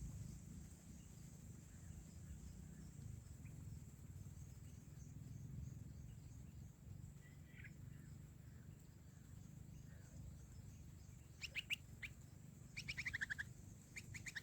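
Bulbul chirps: a few faint, short chirps, then two quick runs of sharp, louder chirps about two-thirds of the way in and another near the end, over a low steady background hum.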